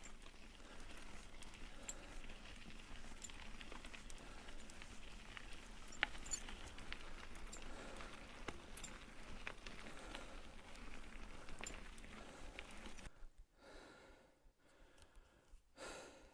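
Mountain bike rolling over a dirt and gravel trail: faint crunching of the tyres with scattered small clicks and rattles. The sound drops away abruptly about thirteen seconds in.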